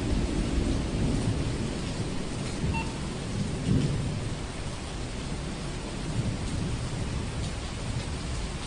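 Thunderstorm ambience: steady rain with low thunder rumbles, loudest near the start and again about four seconds in.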